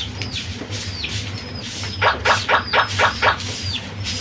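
A small bird chirping repeatedly, short high chirps that slide downward several times a second, with a run of five louder short notes about two seconds in. A low steady hum runs underneath.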